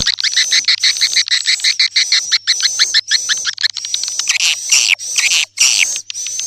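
Swiftlet twittering from a lure-call recording, the kind played to call swiftlets in. It is a rapid run of chirps, about six a second, that about four seconds in gives way to louder, harsher bursts of chirping.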